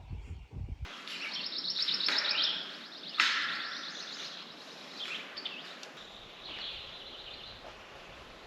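Outdoor nature ambience: high-pitched chirping and rapid trilling from small wildlife. There is a sharp click about three seconds in.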